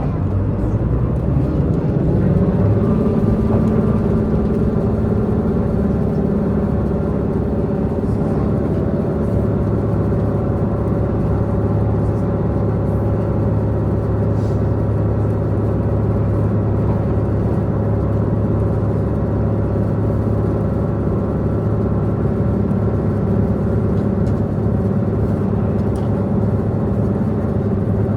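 Diesel engine of a Tze-Chiang diesel multiple unit running steadily under power, heard from inside the passenger car over the rumble of the train at speed. Its low drone grows stronger about nine seconds in.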